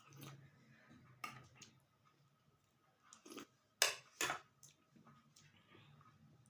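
A person eating: chewing with scattered short mouth clicks and smacks, the two loudest a little past the middle.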